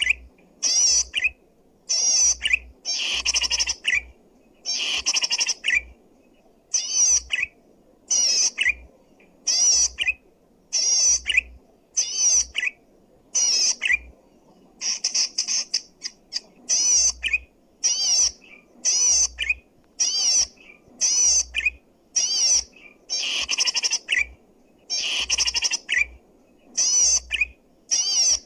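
Cici padi (cisticola) singing loudly in short, rapid phrases of high, wavering notes, roughly one phrase a second with brief pauses between. This is the kind of loud, clear song used as a lure or as a tutor recording for caged birds.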